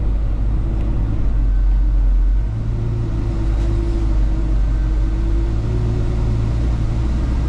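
Chevrolet 396 big-block V8 with dual exhaust running under way, heard from inside the car: a deep, steady rumble that swells slightly and then eases off about two and a half seconds in.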